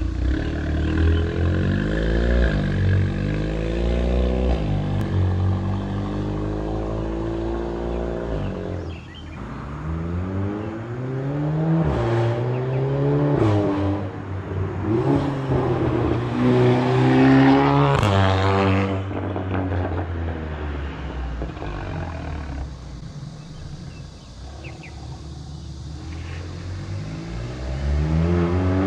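Volkswagen Golf GTI exhaust as the engine is revved and accelerated. The pitch climbs and drops away several times, the highest rise peaking about eighteen seconds in. A lower, steadier stretch follows, and the pitch rises again near the end.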